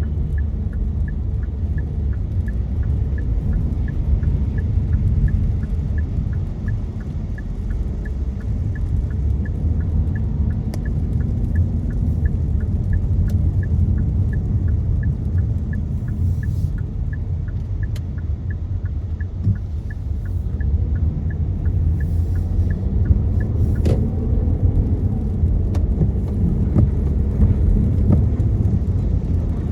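Steady low rumble of road and engine noise inside a car driving in the rain. A light, even ticking runs at about two a second and stops about 23 seconds in. A single sharp click comes near 24 seconds.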